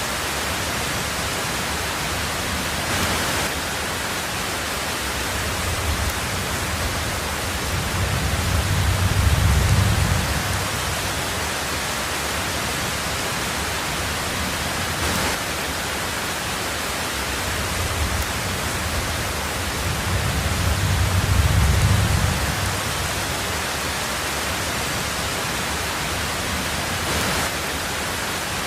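Heavy rain falling steadily on a tin roof, an even hiss. Twice a low rumble of thunder swells up and fades over a few seconds.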